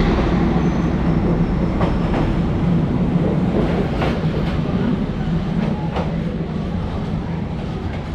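Train rolling past at close range on a street-running track, a heavy rumble with a few wheel clacks over rail joints about every two seconds, the sound slowly fading as it goes by.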